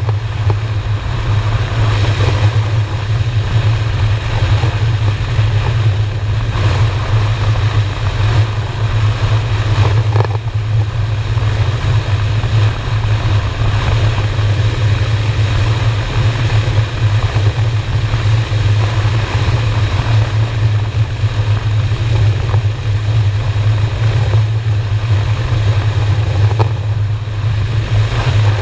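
Honda Shadow's V-twin engine running steadily at cruising speed, with wind and road rush over the microphone.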